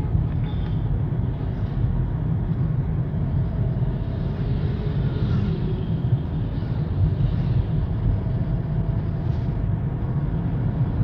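Steady low rumble of a car on the move, with road and engine noise.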